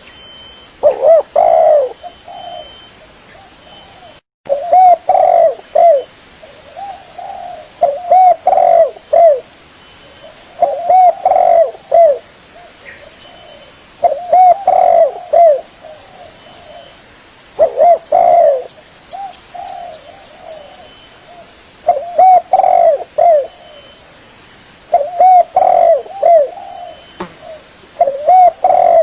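Spotted dove (tekukur) cooing: a short phrase of several low coos repeated about every three to four seconds. The sound drops out briefly about four seconds in.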